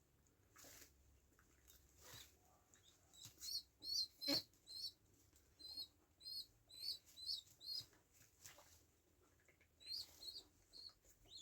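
A bird giving a run of about a dozen short, high chirps a few seconds in, then a few more near the end, with one sharp click among them.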